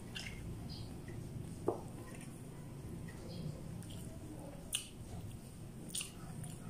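Close-miked chewing of boiled corn on the cob, with wet mouth clicks and smacks. A sharp click comes about two seconds in, and two short crisp smacks near the end.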